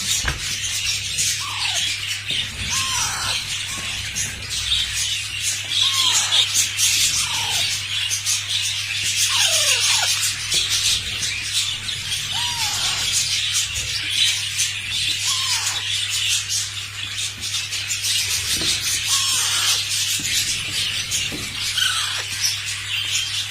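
Lovebirds chattering constantly in high squeaky notes, with short falling calls every second or two, over a steady low hum.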